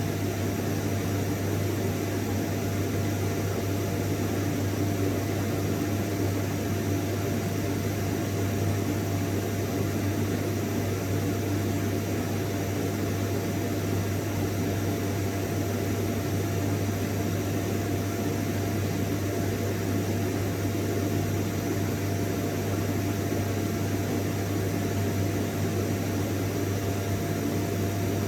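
Vacuum cleaner motor running steadily without change, a constant rushing noise with a strong low hum and a faint steady whine above it.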